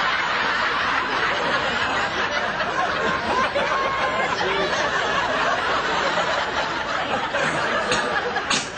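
A crowd of many voices at once, chattering and laughing in a large room. A short sharp sound comes near the end, and the din drops slightly after it.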